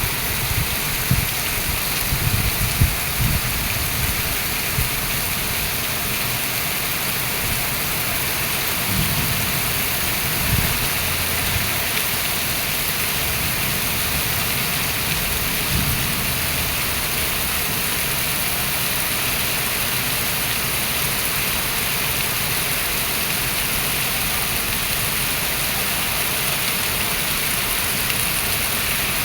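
Heavy rain pouring down in a steady hiss, with a few low thumps in the first few seconds and again around the middle.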